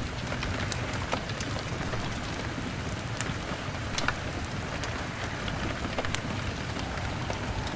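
Steady rain against a window pane, an even hiss, mixed with a crackling log fire that gives scattered sharp crackles and pops.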